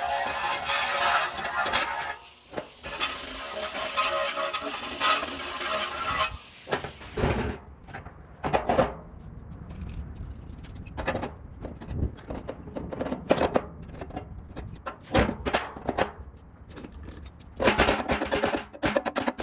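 Sped-up workshop sound: a power tool runs for about six seconds, then many scattered knocks and clinks of tools and metal parts being handled.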